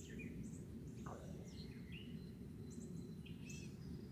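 Small songbirds chirping: short, high, scattered chirps and downslurred calls, several in quick succession around the second and third seconds, over a steady low background rumble.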